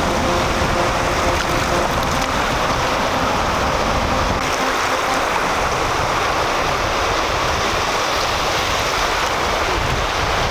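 Ocean surf washing steadily onto a beach, with wind rumbling on the microphone that eases about four seconds in.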